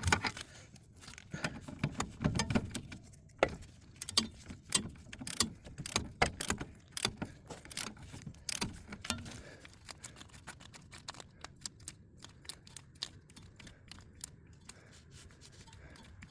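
Metal hand tools and loose steel parts clinking and rattling as they are handled during wheel hub and bearing work. The sharp clinks come thick and fast for about the first ten seconds, then thin out and grow quieter.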